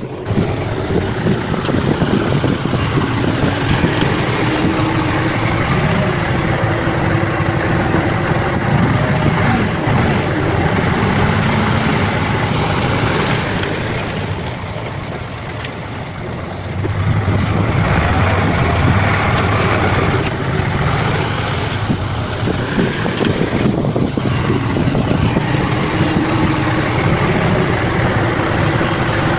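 Bulldozer's diesel engine running steadily under work, easing off for a few seconds about halfway through and then picking up again.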